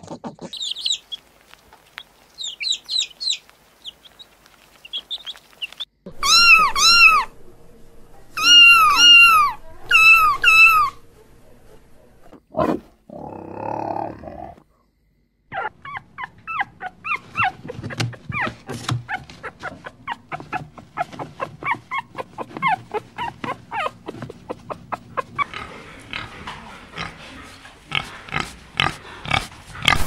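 A series of animal calls: faint high chirps at first, then three bouts of loud rising-and-falling cries, a short noisy burst, and from about halfway on a long run of rapid short squeaks and yelps.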